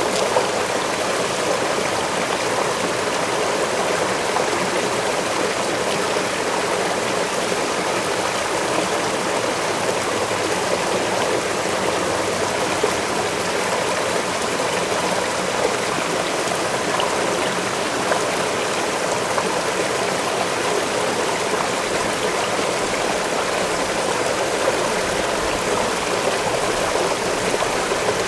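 Waterfall splashing steadily into a stream, a constant rushing of water.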